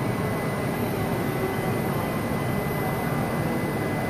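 E6 series Komachi shinkansen standing at the platform: a steady whooshing hum from the train with a thin, steady high whine over it.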